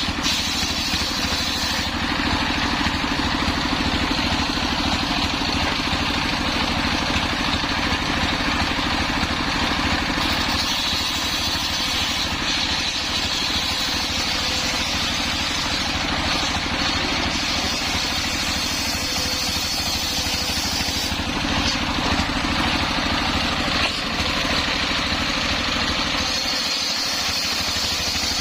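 Engine-driven homemade circular saw rig running steadily while its blade saws through a hard coconut-palm log. A high saw tone over the engine's rumble changes in strength several times as the cut goes on.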